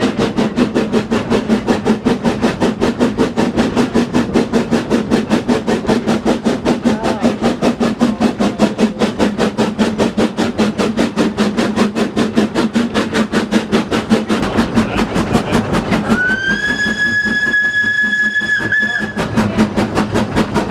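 Schynige Platte Bahn SLM H2/3 0-4-2T rack steam locomotive working, its exhaust beating evenly at about four beats a second. About sixteen seconds in, its steam whistle sounds one long blast of about three seconds, sliding up briefly as it starts.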